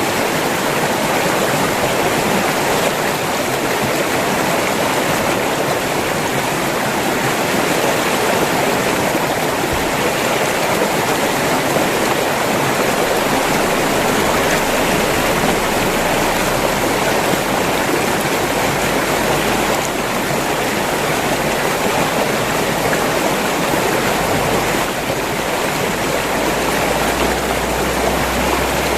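River water flowing steadily over rocks, an even rushing wash with no breaks, joined by a low rumble about halfway through.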